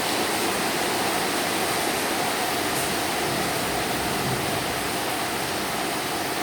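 Heavy rain mixed with hail falling, a steady hiss.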